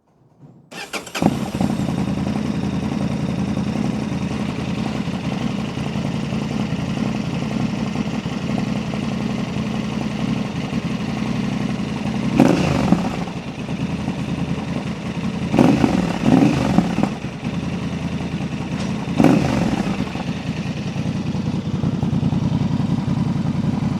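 2025 Honda Transalp's 755 cc parallel-twin engine starting about a second in and idling through a Dominator MX2 slip-on exhaust with its dB killer fitted, blipped four quick times partway through. The exhaust sounds much like the stock one, a little louder.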